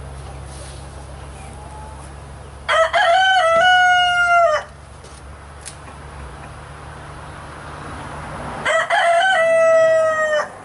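Rooster crowing twice, each crow about two seconds long and six seconds apart, ending on a long held note that drops at the end.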